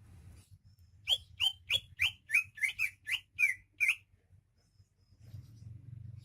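Cucak ijo (greater green leafbird) singing a quick run of about ten sharp, whistled notes, each sweeping down in pitch, at roughly three notes a second for about three seconds.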